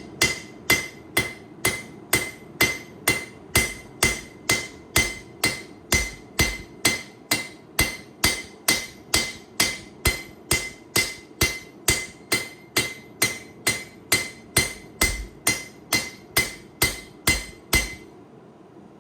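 Steady hammer blows on a hot 8670 high-carbon steel knife blade on the anvil, a little over two strikes a second, each with a short metallic ring. The smith is forging in the blade's bevels. The hammering stops about a second before the end.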